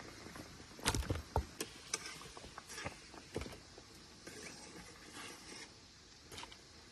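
Irregular knocks and clicks, the loudest a few in quick succession about a second in, then softer rustling.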